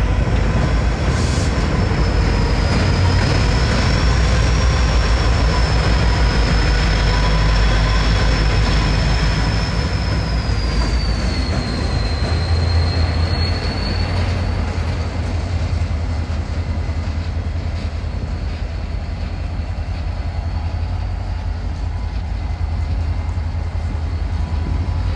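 Freight train rolling past with a steady heavy rumble, its steel wheels squealing against the rails in a thin, wavering high tone that fades about halfway through.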